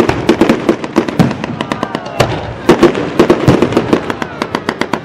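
Firework display: a rapid, dense run of sharp bangs and crackling reports, several a second, with brief lulls about a second and a half in and near the end.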